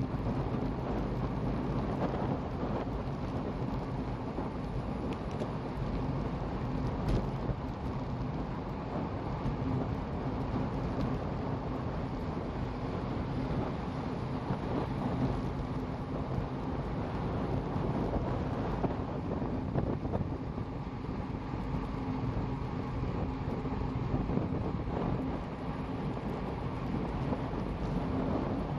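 Steady wind noise buffeting the microphone while moving, over a low rumble with a faint steady hum.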